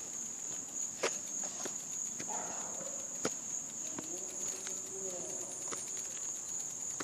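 A steady, high-pitched chorus of insects, crickets by the sound of it, singing without a break. A few sharp clicks stand out over it, about a second in and again a little after three and four seconds.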